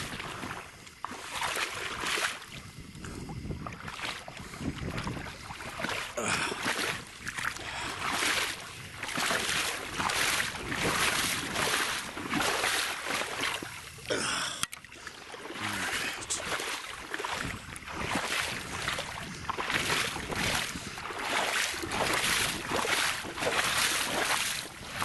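Wading through shallow, muddy marsh water: repeated sloshing and swishing, about one step a second.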